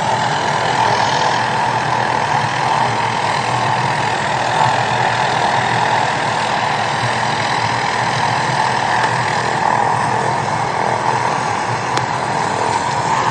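Police helicopter's turbine engine and rotor running steadily on the ground at full speed before takeoff.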